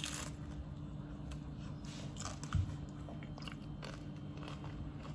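A bite into a slice of thin-crust homemade pizza, crunching right at the start, then quiet chewing with small scattered mouth clicks.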